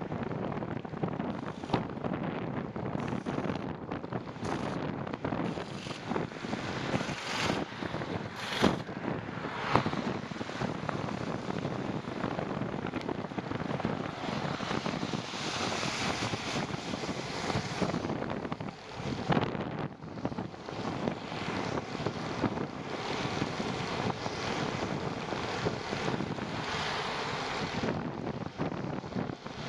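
Wind buffeting the microphone of a camera carried on a bicycle ride, with a steady rushing noise and a few scattered knocks and bumps.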